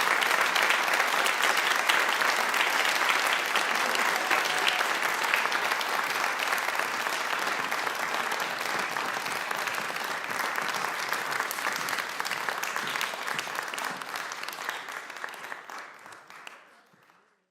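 Audience applauding: dense, steady clapping that slowly thins, then fades out to silence near the end.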